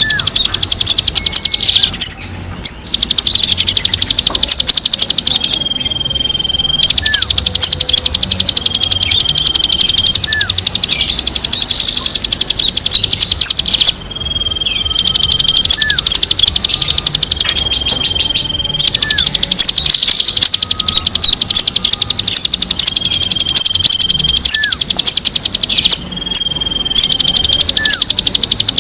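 Loud, dense songbird chatter from a bird-calling lure recording: a very fast, unbroken run of high notes, with short level whistles and brief falling notes mixed in. It breaks off for about a second every few seconds, and the whole sequence repeats about every twelve seconds.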